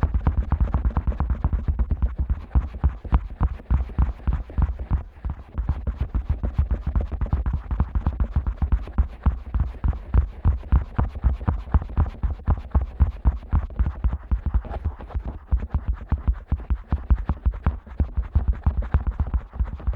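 Fingers rapidly poking and rubbing in the ear canal of a Neumann KU100 dummy head microphone: a fast, continuous run of muffled, bass-heavy thumps and scratches, several a second.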